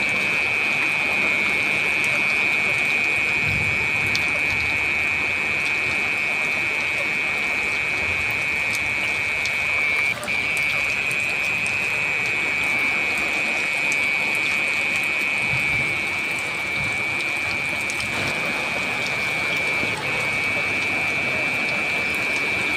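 Heavy rain falling steadily, a constant hiss with scattered drop ticks.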